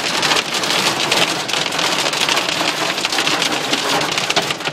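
Hail pelting a car's roof and windows, heard from inside the cabin: a dense, unbroken clatter of many small hits.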